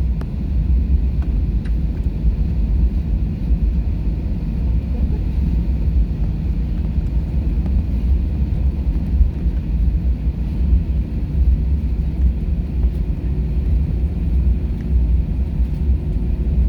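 Steady low rumble inside an airliner cabin, its jet engines running at low power before takeoff. A faint steady hum joins in near the end.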